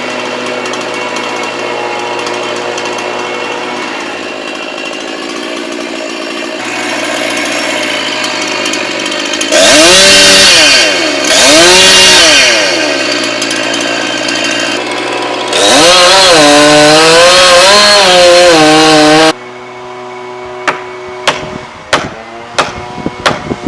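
Chainsaw engine running steadily, then revved up twice, then held at high revs with a wavering pitch as it cuts. About three-quarters of the way through it cuts off suddenly, giving way to a quieter background with a series of sharp knocks.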